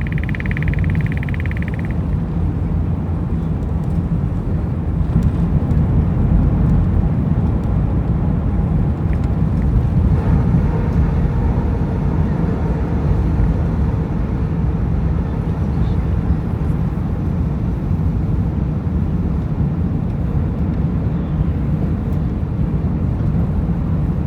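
Airbus A380's Rolls-Royce Trent 970 engines and airflow heard inside the passenger cabin during takeoff: a steady, deep rumble with a hiss that grows a little stronger about ten seconds in.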